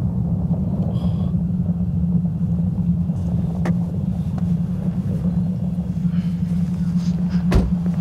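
Steady low rumble of a motor vehicle engine running, with a few sharp clicks, one about a third of the way in and a couple near the end.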